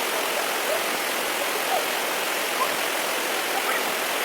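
Steady rushing water of a stream or small waterfall, an even unbroken hiss.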